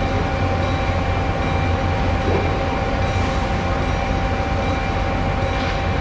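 Steady low rumble of a passenger train and locomotives at a station throat, with a constant high hum over it.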